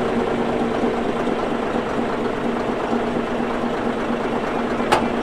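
Caterpillar D8H bulldozer's diesel engine running steadily at a low, even pitch, with a single sharp knock near the end.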